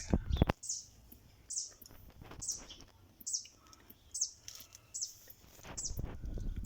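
A small bird chirping a short, high, falling note about once a second. A couple of knocks at the start and a low rumble near the end.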